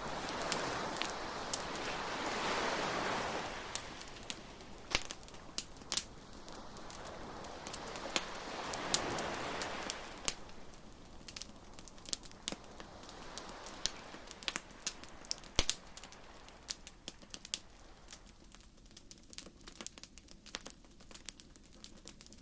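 Beach bonfire crackling, with frequent sharp pops and snaps from the burning wood, while surf washes in twice in slow swells that fade out.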